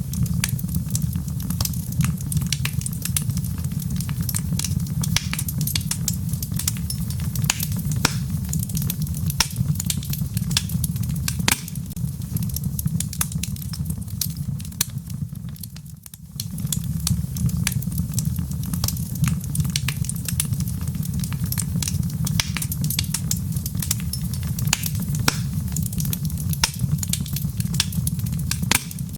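A wood fire crackling, with many sharp pops and snaps over a steady low rumble, mixed with rain. Everything briefly fades about sixteen seconds in, then picks up again.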